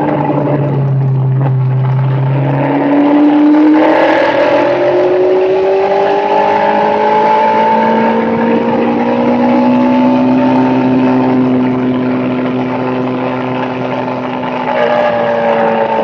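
A bike's motor running under load, its pitch stepping up about two and a half seconds in, climbing slowly and holding high, then dipping briefly near the end before picking up again.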